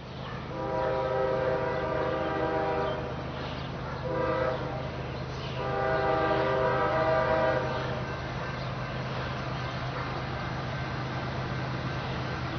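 Diesel freight locomotive's air horn blowing a chord: a long blast, a short one, then another long one, the pattern of a grade-crossing warning. Under it runs the steady low rumble of the train.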